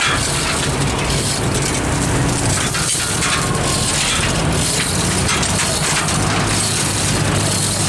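Heavy truck engine running steadily under loud, rough noise.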